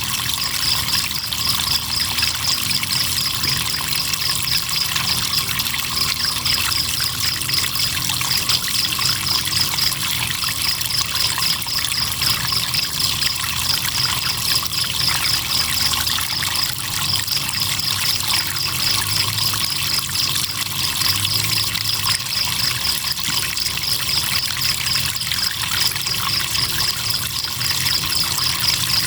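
Crickets chirping in a fast, even pulse at one high pitch, breaking off briefly a few times, over the steady rush of flowing river water.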